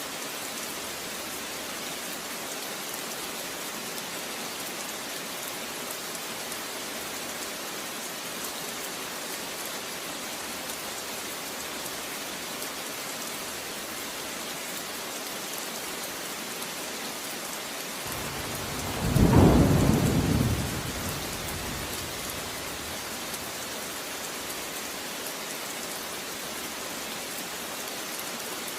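Steady rain falling, with one clap of thunder about two-thirds of the way through that swells and rolls away over about three seconds.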